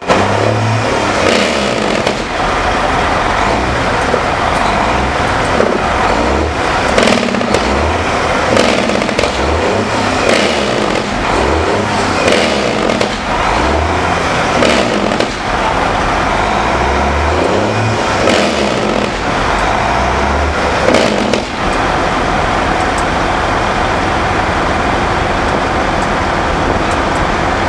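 Heavy truck engines running loud, with a string of sharp cracks and shifting low rumbles for about the first twenty seconds, settling to a steady drone after that.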